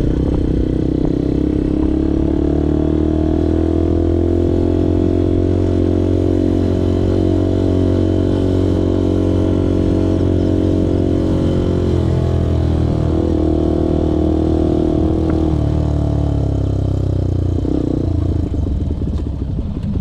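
Benelli motorcycle engine running while riding, its pitch climbing slightly over the first few seconds and then holding steady. There is a short break in the engine note about twelve seconds in, and the pitch drops away after about fifteen seconds as the bike slows.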